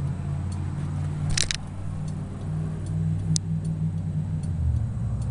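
Motorcycle turn-signal flasher ticking in a regular rhythm over a low steady hum, with two sharper clicks, about a second and a half in and about three and a half seconds in.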